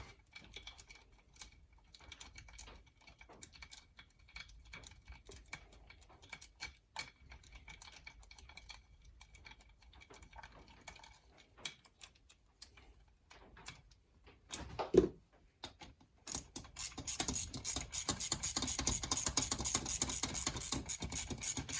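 Small metallic clicks and taps of engine parts and bolts being handled, with a knock about fifteen seconds in. From about sixteen seconds a ratchet wrench clicks rapidly and steadily as the M6 bolts of the cam chain tensioner are run in.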